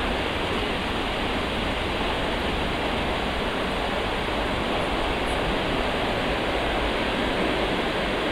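Passenger train arriving behind an EU07-family electric locomotive, its coaches rolling past: a steady rushing noise of wheels on rails.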